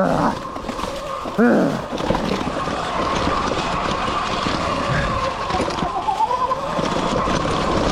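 Sur Ron X electric dirt bike's motor whining at a steady pitch, rising briefly about six seconds in as it speeds up, over the rattle and knocks of the bike running over rough dirt trail.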